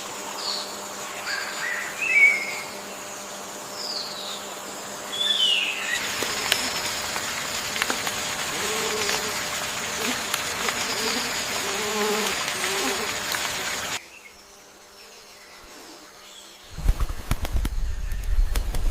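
Forest ambience in separate cuts. First, short high chirps of small birds over a steady hum. From about six seconds in, a dense buzzing of insects with low, wavering calls, and near the end a loud low rumble.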